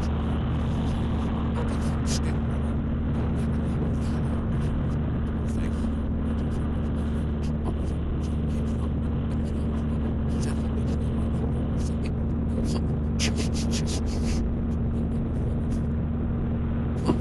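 Car running, heard as a steady low engine and road drone with a constant hum, with faint rapid crackling high above it.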